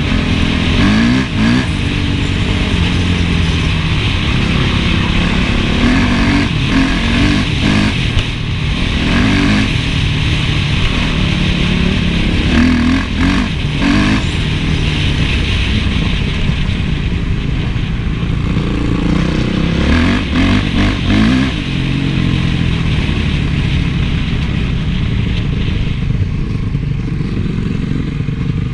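Honda CRF450 four-stroke single-cylinder motocross engine under way, revving up and easing off again and again, with several rising runs in pitch as the bike accelerates.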